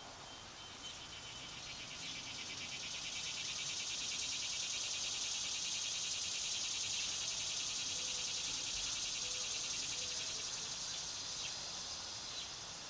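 A cicada's high, fast-pulsing buzz swells up over a couple of seconds, holds, then fades away near the end. A few faint short bird chirps sound over it.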